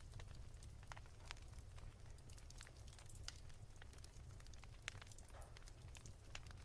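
Faint wood fire crackling: irregular small pops and snaps over a low steady rumble.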